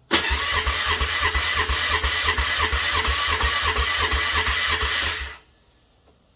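Starter motor cranking a cold engine in an even, pulsing rhythm for about five seconds without it catching, then stopping: a failed cold start.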